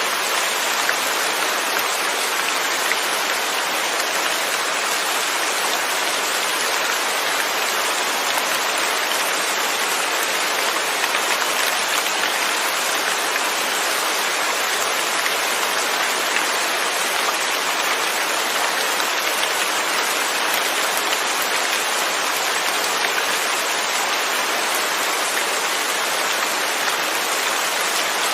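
Steady rain, heavy and even, with no thunder: a continuous hiss of drops with fine patter throughout.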